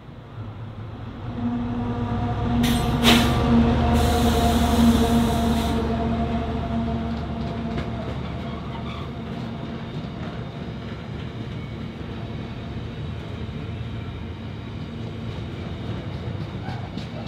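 A railway locomotive passing, growing louder over the first couple of seconds and then slowly fading, with a steady hum. At its loudest, about three to six seconds in, there are two brief rushes of noise. Faint wheel clicks follow as it moves away.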